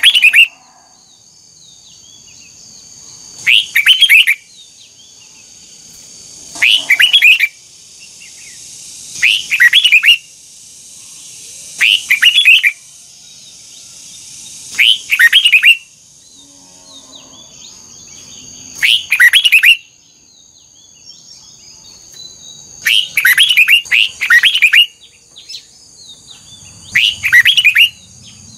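Red-whiskered bulbul singing short, loud phrases of quick whistled notes, one burst about every three seconds, with one longer phrase a little past the middle. This is the double-note song that bulbul keepers train for.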